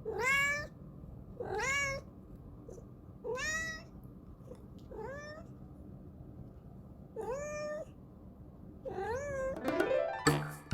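A domestic cat meowing six times, each meow rising in pitch, about every one and a half to two seconds. Rhythmic music starts near the end.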